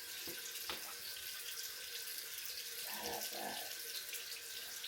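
Bathroom sink tap running steadily, with two short, low sounds in quick succession about three seconds in.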